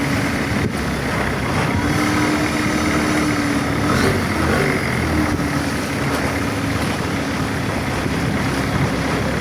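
Boat engine running steadily, a loud, even drone with a held hum.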